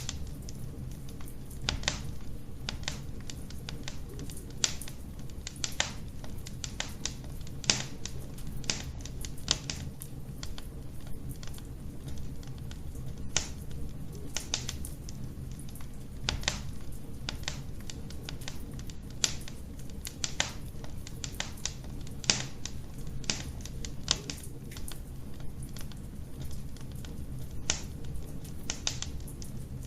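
Wood fire burning in a fireplace: irregular sharp crackles and pops, sometimes several in quick succession, over a steady low rumble of the flames.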